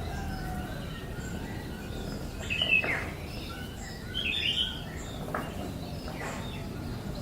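Birds calling: a few short chirps and sharp downward-sweeping calls, the loudest a little under three seconds in, over a steady low hum.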